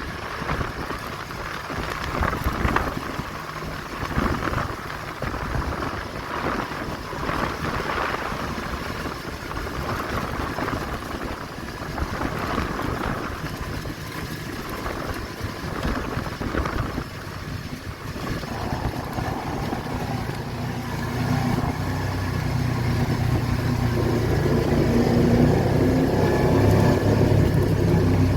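A car driving with a steady rumble and road noise; over the last several seconds the engine note comes up and grows louder as it accelerates.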